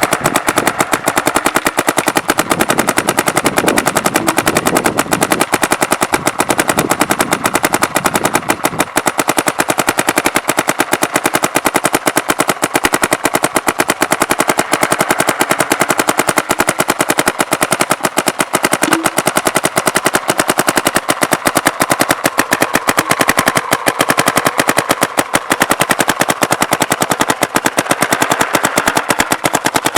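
Bob Long spool-engine paintball marker firing continuously in rapid strings, ramping on a PSP mode capped at 12.5 shots a second.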